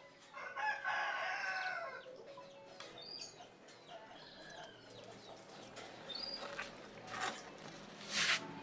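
A rooster crowing once, a drawn-out call of about a second and a half that falls away at the end, followed by faint scattered chirps and a short sharp noise near the end.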